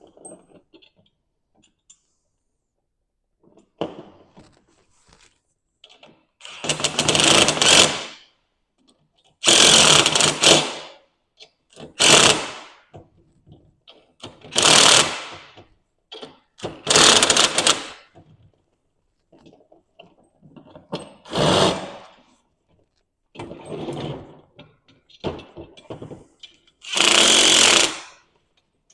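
Cordless drill with a 13 mm socket spinning nuts onto bolts in short bursts, about eight runs of a second or so each with pauses between, as the nuts are run down close before final torquing.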